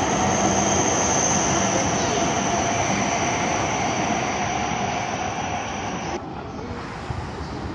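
Electric commuter train running along the tracks: a steady rumble carrying a high steady whine, slowly fading. About six seconds in the sound changes abruptly and the high end drops away.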